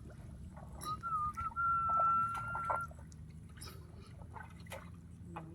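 A high, steady whistle holds one pitch for a moment, warbles briefly about a second in, then holds again for just over a second. Small splashing and sloshing of water and mud carry on beneath it.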